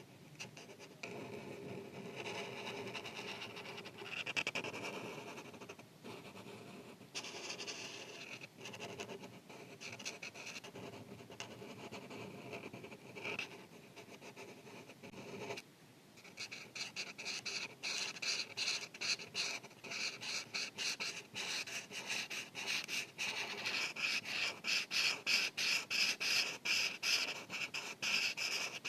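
Felt-tip marker rubbing across paper while coloring in: slower, continuous strokes at first, then from about halfway a quick back-and-forth scribble of short, louder strokes, about three a second.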